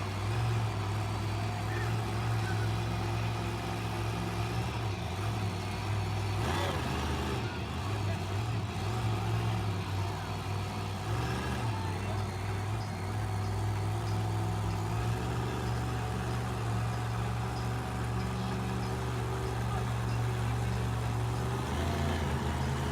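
Monster truck engine running with a steady low drone that shifts in pitch a couple of times.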